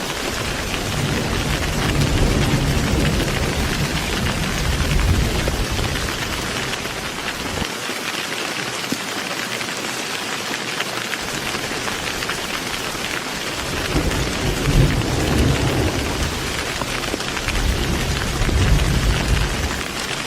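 Heavy rain falling steadily, with deep rolling thunder rumbling through the first part, fading out for several seconds mid-way, then rumbling again toward the end.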